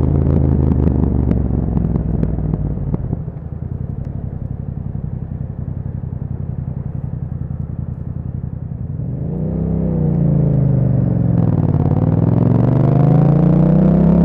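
A Yamaha MT-07's parallel-twin engine through an Akrapovic aftermarket exhaust. It slows to a steady, evenly pulsing idle in the first few seconds and idles for about six seconds. From about nine seconds in it revs up as the bike pulls away, the pitch dipping once and climbing again near the end.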